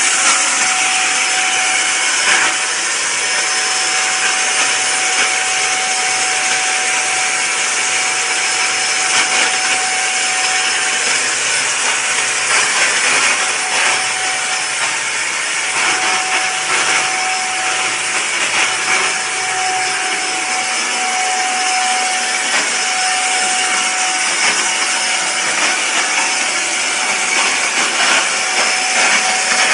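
Vacuum cleaner running steadily: a loud, even hiss with a thin whine that drops out and comes back a few times.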